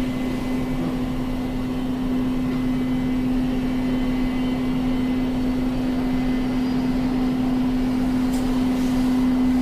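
Steady jet aircraft engine noise with a constant low hum, growing slightly louder near the end.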